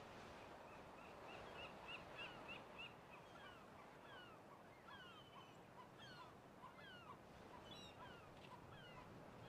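Faint bird calls over a low hiss: a quick run of short chirps in the first few seconds, then repeated short whistled notes that slide downward in pitch.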